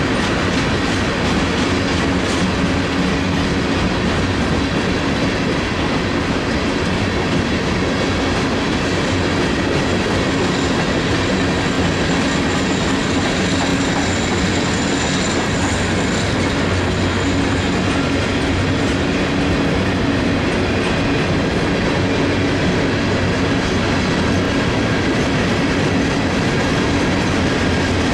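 Freight train rolling past, tank cars and then open hopper cars: a steady, loud rolling noise of steel wheels on rail. A faint high whine runs through the middle.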